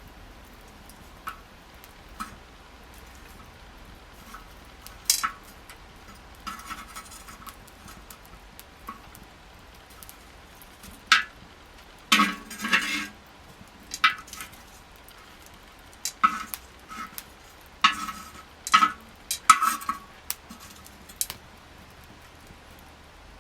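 Metal clinking and knocking, as of utensils or tongs against metal cookware or a fire stand. The clinks come singly and in short clusters, busiest around the middle and in the second half.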